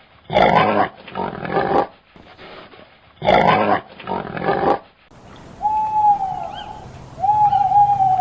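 Animal calls: two pairs of harsh, growl-like calls, then a switch about five seconds in to a different animal giving a repeated clear call that holds a pitch and then drops, with faint chirps above it.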